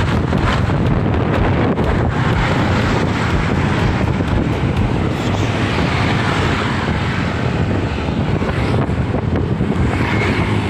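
Motorcycle running steadily on the road, with heavy wind noise buffeting the microphone.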